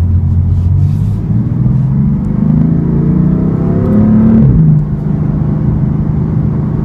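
BMW M4's twin-turbo 3-litre inline-six engine under acceleration, its pitch rising from about a second and a half in. About four and a half seconds in the revs drop sharply, and it then runs on at a steady note.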